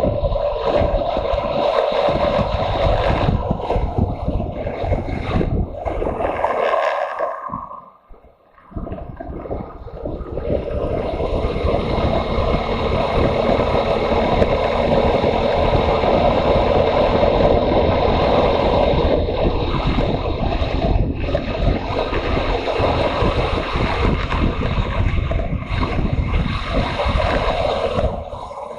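Motorcycle on the move, its engine running under a steady rush of wind noise on the microphone. The sound drops away briefly about eight seconds in, then builds back up over the next few seconds.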